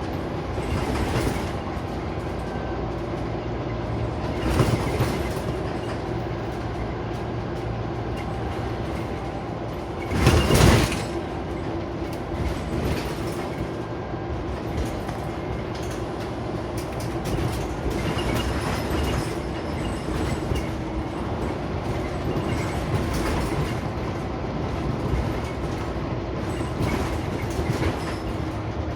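Scania Omnicity single-deck bus heard from inside while on the move: a steady run of engine and road noise with light rattling, and two louder jolts, one about five seconds in and a bigger one about ten seconds in.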